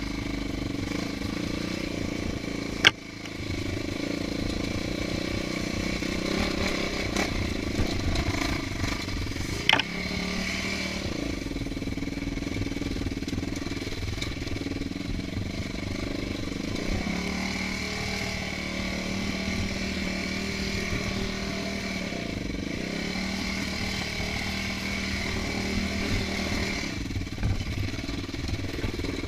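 Dirt bike engine running on a trail ride, its pitch shifting up and down with the throttle. Two sharp knocks stand out, about three seconds in and again about ten seconds in.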